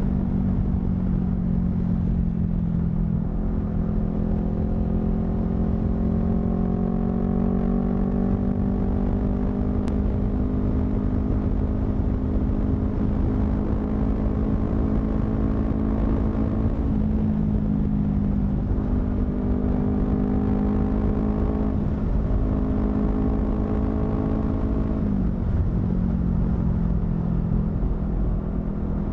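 Honda CBR250RR motorcycle with a modified aftermarket exhaust, heard from the rider's seat while riding: the engine note climbs slowly, drops back in pitch about halfway through and again near the end, then climbs once more. A low rumble of wind on the microphone runs underneath.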